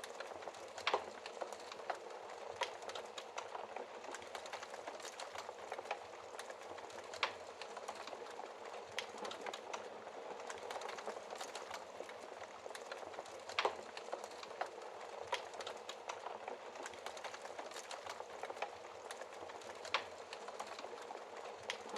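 Wood fire in a fireplace crackling: a steady soft hiss of burning with irregular small crackles and a few sharper pops, the loudest about 1, 7, 13 and 20 seconds in.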